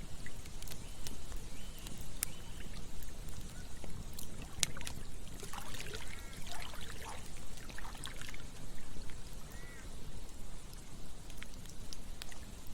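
Campfire burning with sharp, scattered crackles and pops over a steady low rumble. A few short chirps come through, and there is a busier flurry of sounds about six to eight seconds in.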